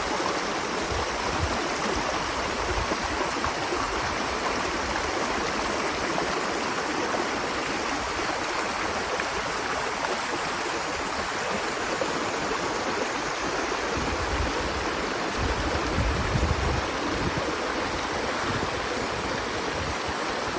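River water rushing steadily, like a stream pouring over a shallow weir or rapids, with a few low rumbles in the second half.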